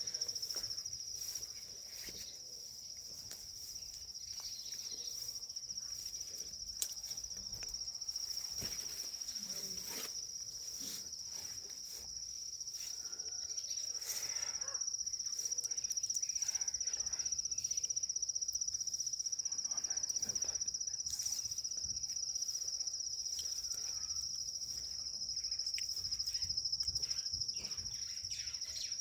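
Steady, high-pitched insect trill, cricket-like, going on without a break, with faint scattered rustling and taps underneath.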